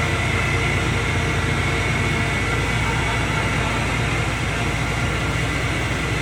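Diesel engine of a self-built forage corn harvester running steadily under way, a low rumble with a steady high whine over it.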